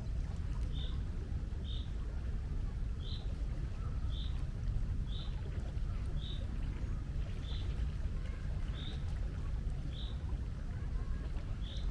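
A bird repeats a short high chirp about once a second over a steady low rumble.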